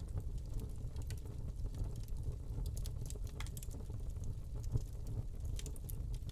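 Wood log fire burning in a fireplace: a steady low rumble of flames with scattered sharp crackles and pops, a few coming close together near the end.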